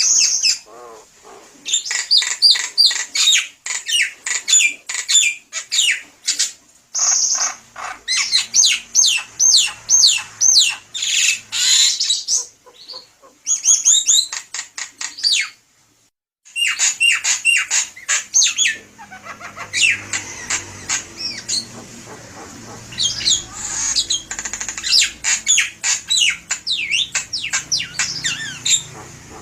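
Javan myna singing at length: fast, dense runs of short sliding notes and chatter, broken by about a second of silence just past halfway.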